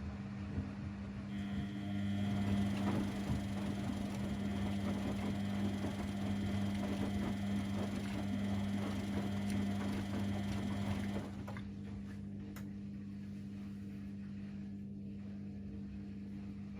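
Washing machines and condenser tumble dryers running with a steady hum. An extra motor or pump sound with a whine joins about a second in and stops abruptly about eleven seconds in.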